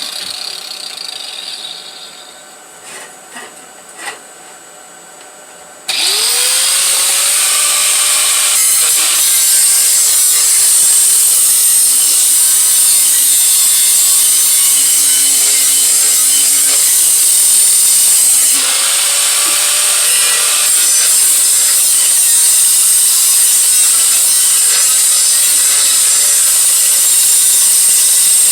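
A handheld power tool grinding metal: after a few light knocks it spins up about six seconds in and runs loud and steady under load, dips briefly about two-thirds through and spins up again.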